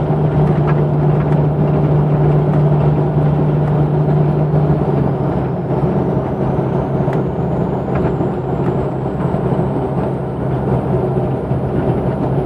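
Jeep Cherokee 4.0 straight-six running through a 2.5-inch exhaust with a Thrush Turbo muffler, giving a steady low exhaust drone that eases a little about halfway through.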